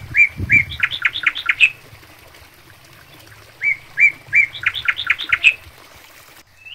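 A songbird singing two loud phrases about three and a half seconds apart, each a few short notes followed by a quick run of about six notes.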